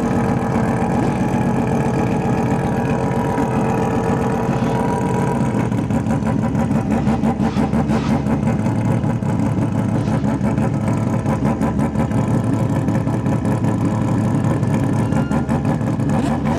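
Mazda rotary-engined racing car running at idle with a rapid, choppy pulsing note; the note changes about five seconds in.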